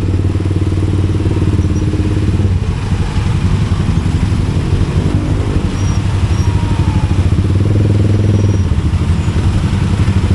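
Motorcycle engine running under way, its low hum falling off around the middle and building again near the end as the throttle changes.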